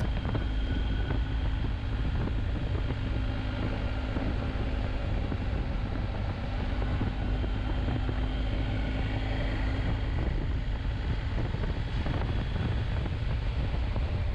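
Motorcycle riding along steadily, its engine drone mixed with wind rushing over the helmet-mounted camera's microphone. A faint steady tone in the engine note fades out about ten seconds in.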